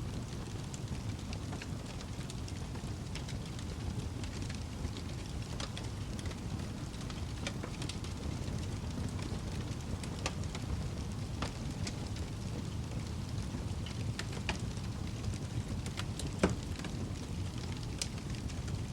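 Fireplace wood fire burning: a steady low rumble of flames with scattered sharp crackles and pops, one louder pop near the end.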